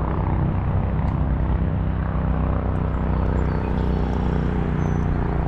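A motor engine running steadily with an even, low drone.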